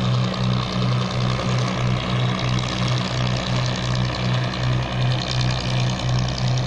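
Boat engine running steadily with a low, even throb about three times a second.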